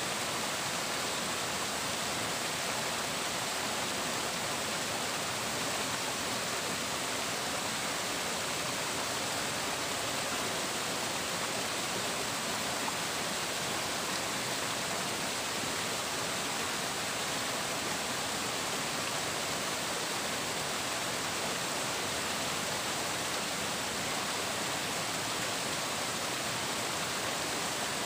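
Flowing water rushing steadily, an even hiss with no birdsong or other sounds over it.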